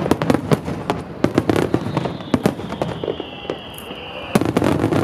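Wide starmine fireworks: many aerial shells bursting in rapid succession, each a sharp bang. A whistle falling slightly in pitch sounds from about two seconds in, and a dense salvo of bursts comes near the end.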